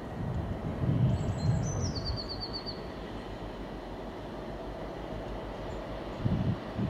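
Low steady rumble of a train approaching out of sight. About a second and a half in, a songbird sings one short phrase of falling notes that ends in a quick run of repeated notes.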